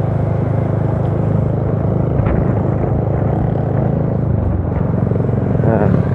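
Honda RS125's 125 cc single-cylinder four-stroke engine, stock with an open pipe, running steadily while the motorcycle is ridden along, its pitch easing slightly near the end.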